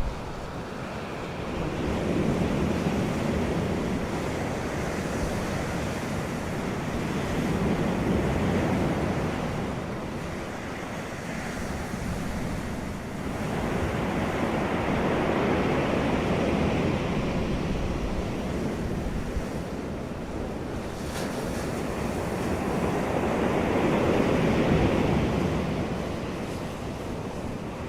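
Surf and wind on the microphone, a steady rushing noise that swells and fades in slow surges several seconds apart.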